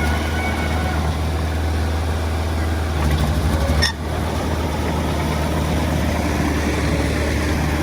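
Heavy earthmoving machine's diesel engine running steadily at low revs with a deep even hum, broken by a brief drop about four seconds in.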